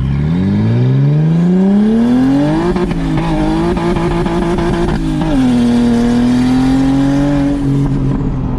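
BMW 335i's N54 inline-six with a big single turbo, launched hard at full throttle: revs climb for nearly three seconds, then hold high as the rear tyres spin. About five seconds in the revs drop with the shift to second, then hold steady again while the tyres keep spinning.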